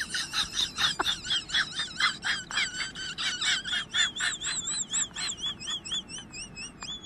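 A bird calling: a fast run of short chirps, about four a second, turning from about four seconds in into a wavering, warbling whistle.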